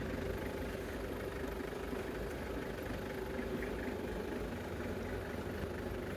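Steady background machine hum: a low rumble with a constant mid-pitched tone, unchanging throughout.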